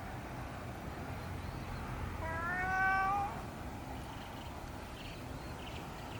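A cat meowing once, about two seconds in: a single meow about a second long that rises in pitch and then holds. Steady low background noise sits underneath.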